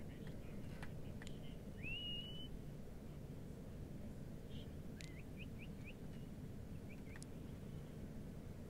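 Faint outdoor ambience: a steady low rumble with a few high bird calls, a rising, held whistle about two seconds in and a quick run of short chirps a little past the middle. A few faint sharp clicks fall between them.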